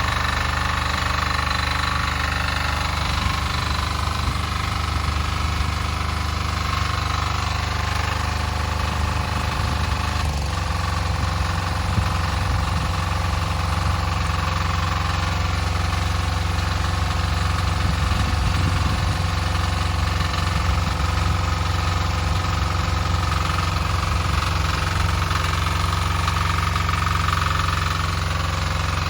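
Weima diesel walk-behind tractor's single-cylinder engine running steadily, with a slight change in its note about ten seconds in.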